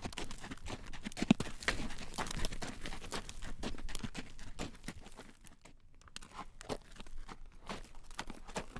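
Hooves of a horse drawing a carriage clacking on a road: a dense, irregular run of knocks that thins out briefly a little past halfway, then picks up again.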